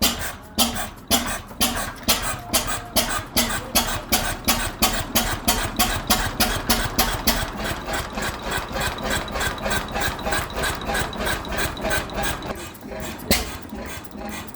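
National 5 hp horizontal open-crank stationary engine running, each firing stroke a sharp regular beat, about two to three a second. Near the end the beats fall away briefly, then one hard beat comes.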